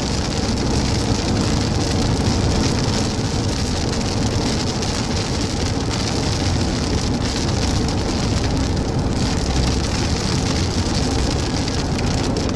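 Heavy rain beating steadily on a moving car, over a low road and engine rumble, heard from inside the car.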